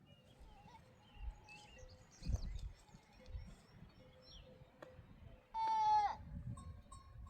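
A goat bleats once, a single call of about half a second that dips in pitch at its end. A dull thump comes a little over two seconds in, and faint high chirps sound earlier on.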